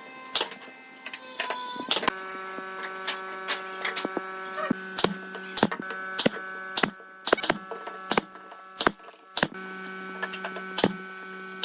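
A steady machine hum with many irregular sharp clicks and knocks over it. The hum starts about two seconds in, drops away for a few seconds in the middle, then returns.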